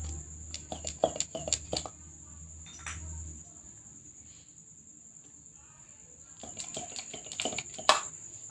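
Scattered light clicks and clinks of small objects being handled, in two clusters near the start and near the end, over a steady high chirring of crickets. A low hum stops a few seconds in.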